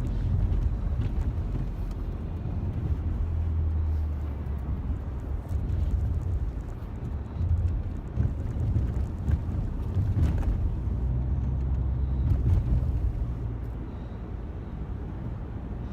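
Car interior while driving: steady low engine and road rumble, shifting in pitch a few times.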